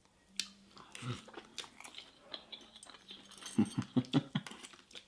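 A person chewing food close to the microphone: soft, wet clicks and smacks of the mouth, loudest in a run about three and a half to four and a half seconds in.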